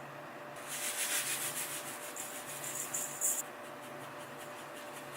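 Pepper mill grinding: a burst of quick, high-pitched rasping strokes lasting about three seconds, then stopping abruptly.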